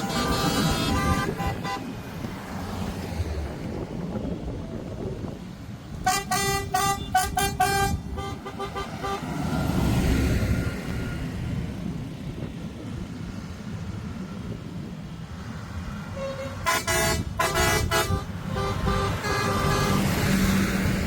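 Vehicle horns sounding over a steady low engine rumble: a held blast at the start, a quick run of short toots a third of the way in, and another run of toots with a longer blast near the end.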